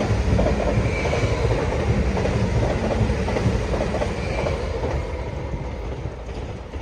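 Train running past on the track, its wheels clattering over the rails with a faint high squeal twice, the sound fading away near the end.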